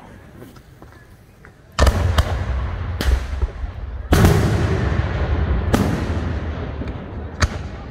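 Aerial firework shells bursting: a series of about six sharp booms, each trailing off in a long echo. They start about two seconds in, and the loudest comes about four seconds in.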